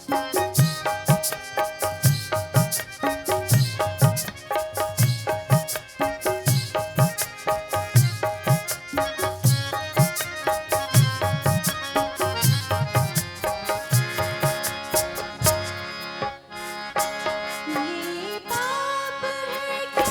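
Instrumental interlude of Hindustani light-classical accompaniment: a harmonium playing the melody over a steady rhythm of tabla and dholak strokes with deep bass thumps. About three-quarters of the way through the drums stop and the harmonium carries on alone.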